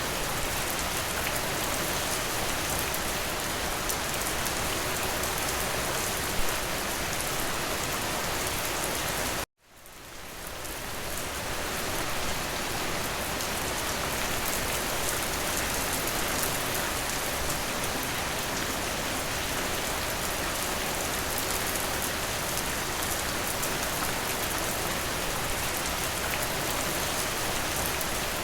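Steady rain, an even wash of noise, with one sharper tap about six seconds in. About nine and a half seconds in the sound cuts out abruptly and fades back in over the next two seconds.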